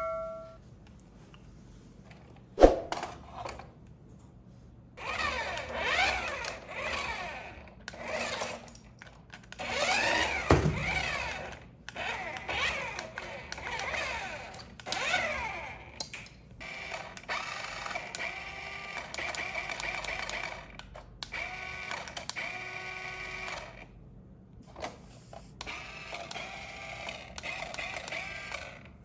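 Small electric motor and plastic gears of a toy RC car whirring in bursts, the pitch rising and falling as it speeds up and slows down, after a single sharp click. Later it runs in steadier stretches with short gaps.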